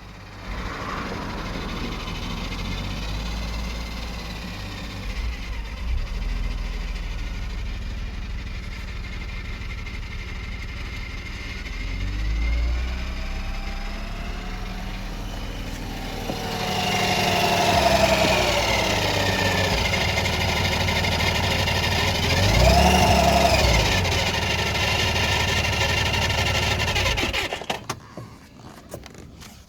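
BMW E46 320i's M54 straight-six engine running, louder from about halfway and revved up and back down twice, then shut off near the end. Its rattle comes from a cracked weld on the lower part of the exhaust manifold, a common fault on the E46.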